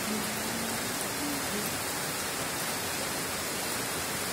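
Heavy summer downpour: steady, even rain noise of water pouring down.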